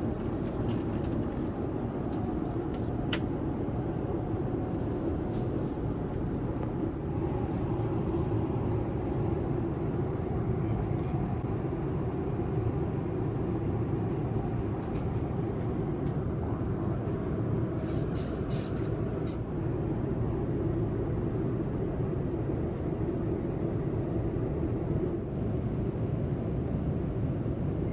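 Boeing 787-9 airliner cabin in flight: a steady, low rush of engine and airflow noise, with a few faint clicks.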